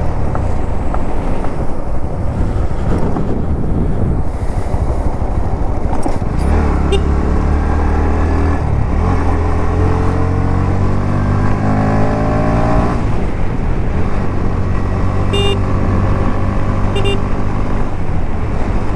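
Motorcycle engine running under way, over a steady low rumble of road and wind noise. Its note rises as the bike accelerates from about six seconds in, drops at a gear change, and climbs again before settling. Two short sharp high sounds come near the end.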